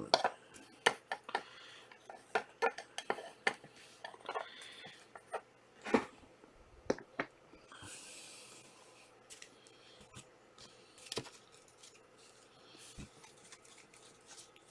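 Trading cards being handled: an irregular run of light clicks and snaps as cards and packs are flipped and sorted, with a short rustle about eight seconds in.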